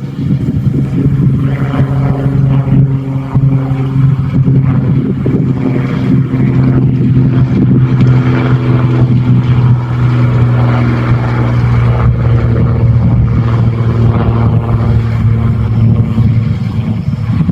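Tractor diesel engine running loud at a steady, held speed.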